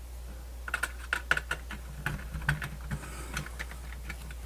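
Irregular light clicks and taps from small parts being handled and fitted into a plastic radio case, over a steady low hum.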